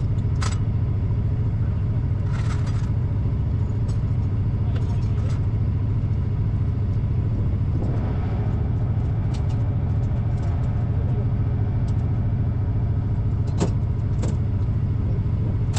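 Truck engine running steadily with a low, even rumble, and a few short metallic clicks and knocks over it.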